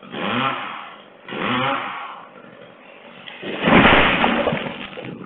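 Dolmar two-stroke chainsaw being pull-started: two rising whirs of the starter cord in the first two seconds, then the engine catches and revs hard about three and a half seconds in before dropping back to uneven running.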